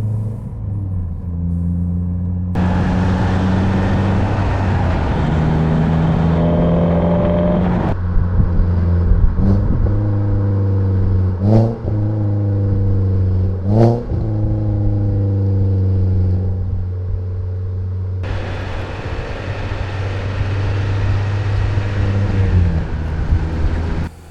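Renault Sandero RS's 2.0-litre four-cylinder engine running at light throttle, its pitch stepping between gears. A rushing noise comes in and out, and about halfway through the revs sweep up quickly twice.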